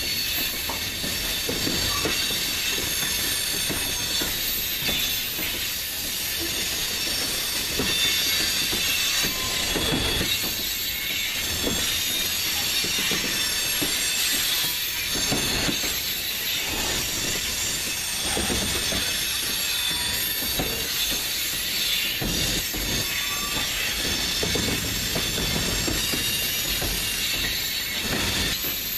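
Freight cars of a CSX train rolling past (covered hoppers, centerbeam flatcars and tank cars), with a steady high wheel squeal and hiss and irregular clunks of wheels crossing a rail diamond.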